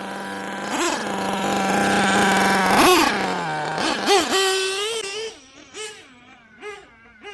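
Nitro engine of a 1/8-scale Losi 8ight-T RC truck running on 30% nitro fuel. It holds a steady high note, revs up in short throttle blips, and is loudest at full throttle around the middle. After that it goes quieter, with quick repeated blips of the throttle.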